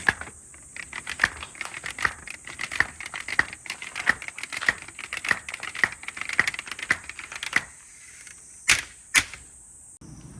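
Marbles rolling and clattering down a marble run track, in a fast, uneven stream of small clicks. Two louder, sharper knocks follow near the end.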